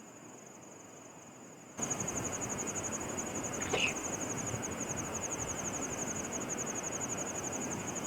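Insects trilling steadily in a high, finely pulsing buzz. About two seconds in, the even rush of stream water comes in abruptly under it, with a brief upward chirp a couple of seconds later.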